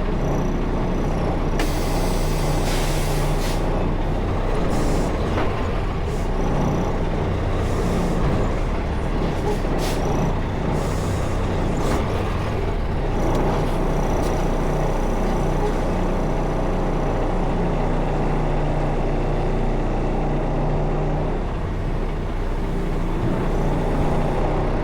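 Semi truck's diesel engine running steadily, with several short bursts of air brake hiss in the first half.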